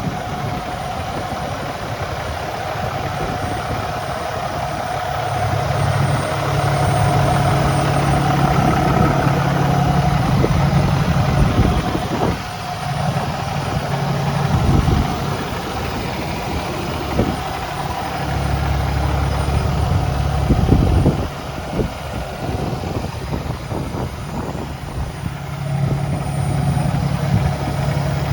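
Cummins ISX12 inline-six diesel engine in a Freightliner day cab truck running at idle. Its low note and loudness swell and drop several times, with a few short knocks in between.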